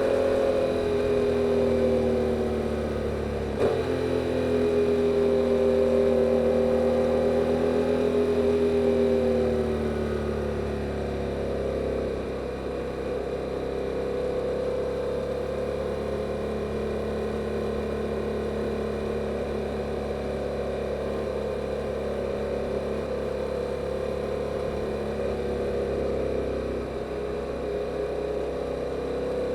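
Yamaha R7's 689 cc parallel-twin engine running through the stock exhaust while riding. The engine note eases down over the first ten seconds, with a sharp click about three and a half seconds in. It then settles to a steady, slightly quieter run.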